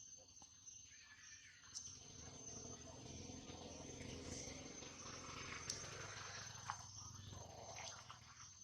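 Faint outdoor ambience: a steady high-pitched insect trill runs throughout. A low rumble swells through the middle and fades near the end, and there are a few sharp clicks.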